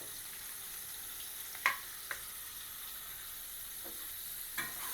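Onions frying in hot oil in a pan, a steady high sizzle, with a sharp clink of a utensil against the pan after a second and a half, a softer one just after, and another near the end.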